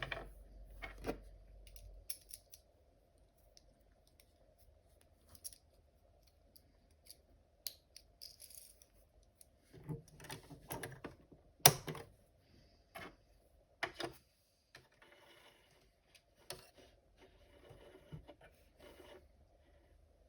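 Quiet, scattered clicks and handling noises of thread being changed on a sewing machine, with one sharper click about halfway through.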